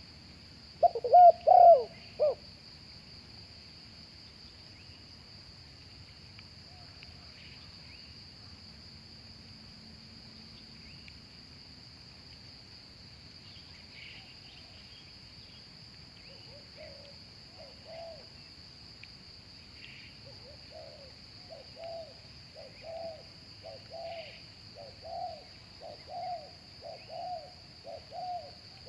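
Spotted doves cooing: a loud burst of coos about a second in, then after a lull a run of repeated coos from partway through that comes faster and louder toward the end. A steady high insect drone runs underneath.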